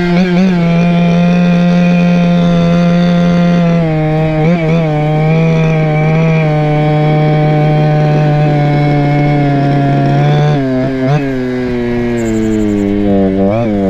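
Chongyang CY26RC two-stroke engine on a Go-Ped scooter running under way at steady throttle. Its pitch steps down a little about four seconds in and again about three-quarters of the way through, with a few quick wobbles in pitch.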